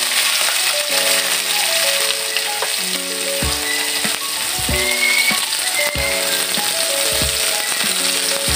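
Pork pieces sizzling steadily as they fry in hot oil in a wok, freshly added to browned onion and garlic. Background music with a regular bass beat plays underneath.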